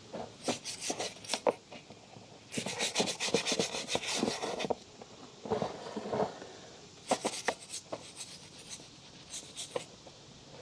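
Motorcycle drive chain being scrubbed, in short groups of quick rubbing strokes with one longer run of rapid scrubbing a few seconds in.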